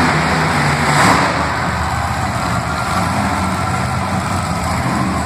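Monster truck engine running at low revs, a steady low drone, with a brief louder swell about a second in.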